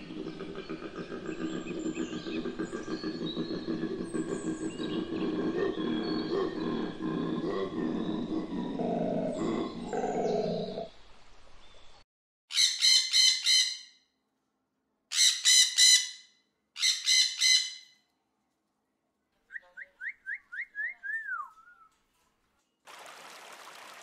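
Koala bellowing: a long, low, rasping run of snore-like grunts lasting about eleven seconds, with faint bird chirps above it. Then a red-and-green macaw gives three loud harsh squawks, followed by a short run of quick whistled notes, and the rush of a shallow stream starts near the end.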